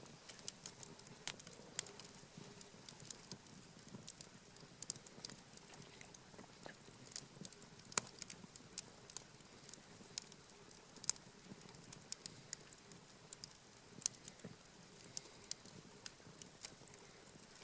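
Wood campfire crackling, with irregular sharp pops and snaps of burning wood over a faint low hiss.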